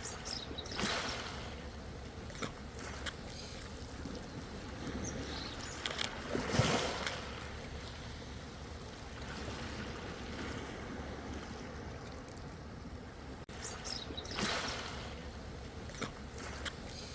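Seawater lapping and splashing, with waves washing in about a second in, again near the middle (the loudest), and once more near the end, over a steady low rumble.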